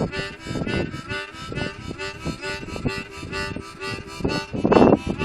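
Harmonica playing the blues in short repeated chords, with wind gusting over the microphone; the loudest gust comes near the end.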